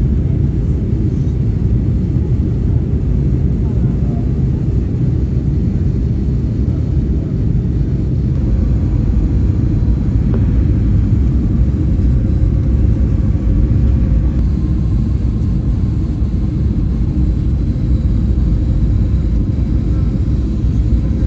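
Steady low roar of an airliner's engines and airflow, heard from inside the cabin.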